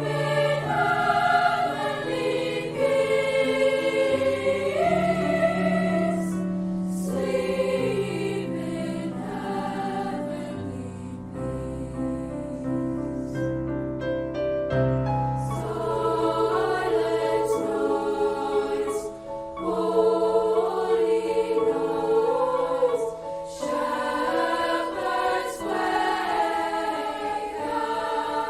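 A student choir singing a Christmas piece in several voice parts over sustained low notes, thinning out briefly about halfway through before the full choir returns.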